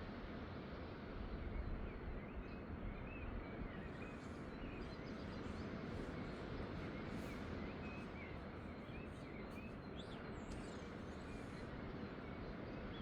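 Small birds chirping faintly, short scattered calls through the middle of the stretch, over a steady outdoor background rumble.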